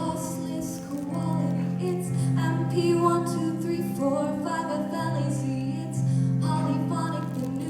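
A solo singer with instrumental accompaniment: sustained low chords that change every second or so, under a singing voice.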